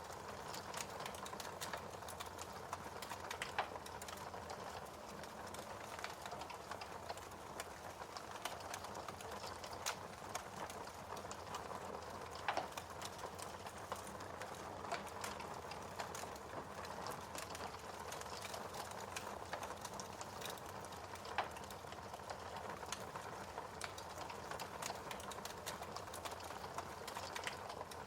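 Wood fire crackling: a steady hiss with dense, irregular small pops and snaps, and three louder pops spread through.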